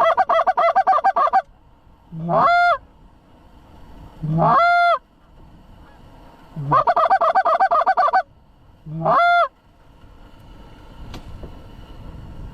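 Canada goose call blown hard and close: a fast run of clucks, then single honks that break from a low note to a high one, in a repeating pattern. Calling stops about ten seconds in, leaving only wind noise.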